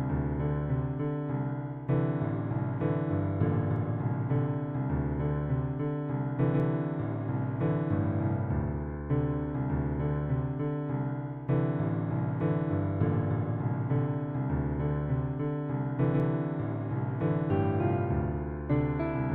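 Instrumental keyboard music with a piano sound: sustained chords over low bass notes, with a fresh chord struck every second or two.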